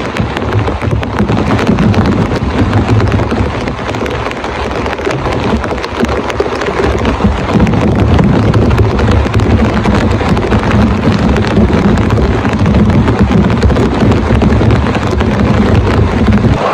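Heavy rain falling hard, a dense patter of countless drop impacts over a deep, steady rumble.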